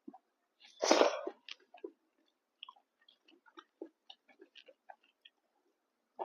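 Close-miked eating sounds of a person chewing pork fry, rice and dal: soft wet chewing clicks and lip smacks, with one loud, breathy burst about a second in.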